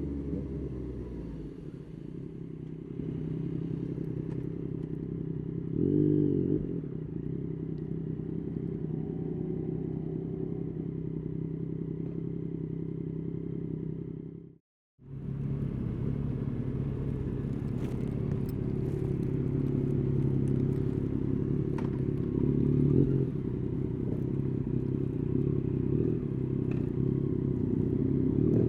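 Yamaha Tracer 9's 890 cc three-cylinder engine running steadily while riding, with a short rise in revs about six seconds in. The sound cuts out completely for a split second about halfway through.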